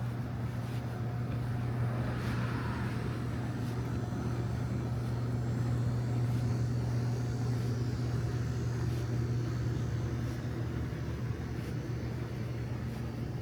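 A steady low hum, swelling a little midway and easing off again, over a soft hiss of rain with a few faint scattered drips.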